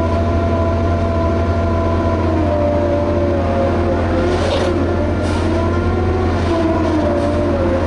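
Liebherr HS8200 dragline working: its engine and winch drive run steadily with a deep hum and a whine that wavers slightly in pitch, with a couple of brief clatters about halfway through.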